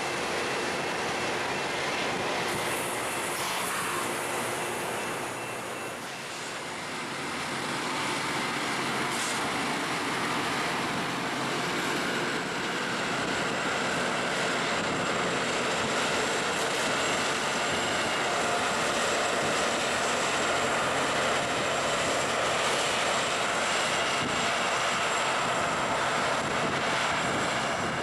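LORAM rail grinder at work, its grinding stones running against the railheads as it passes: a loud, steady industrial rushing drone with a high grinding hiss. It dips briefly about six seconds in, then builds and holds.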